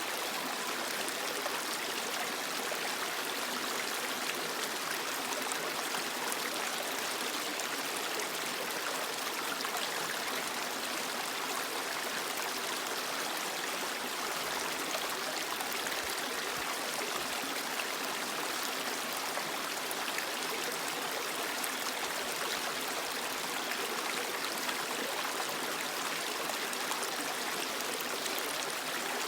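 Creek water running steadily over rocks, a constant splashing rush.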